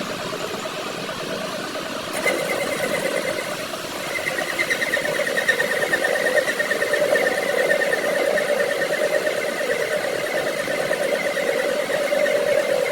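A machine running steadily, with a hum and a higher whine above it. It gets louder about two seconds in and again about four seconds in.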